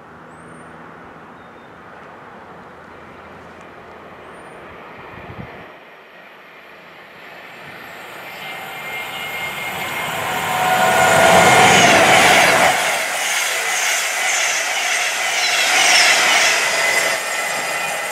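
A train approaching and passing at speed. Its noise builds over several seconds to a loud peak about halfway through and stays loud as the train runs past.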